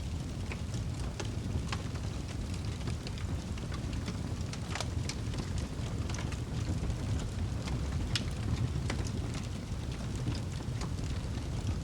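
Wood fire burning in a fireplace: a steady low rumble of the flames with irregular sharp crackles and pops throughout, the loudest about five and eight seconds in.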